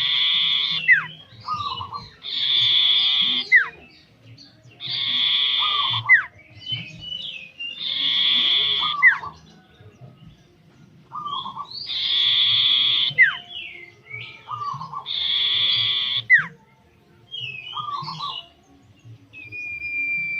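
A songbird singing in a repeating phrase about every three seconds: a short note, a harsh, buzzy stretch of about a second and a half, then a quick falling whistle. This is active, full song ('gacor') of the kind played as a lure to set other birds singing.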